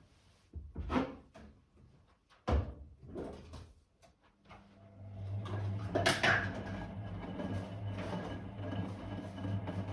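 Blomberg WA391 washing machine on a 90 °C boil wash: the drum pauses, with a few thuds and swishes, the sharpest about two and a half seconds in. Then the motor starts turning the drum again about halfway through, with a steady hum and a louder swell of tumbling laundry.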